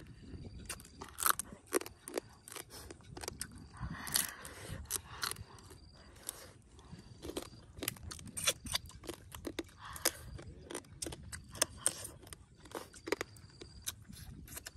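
Close-up chewing of cooked crab, with sharp, irregular crunches of shell between the teeth.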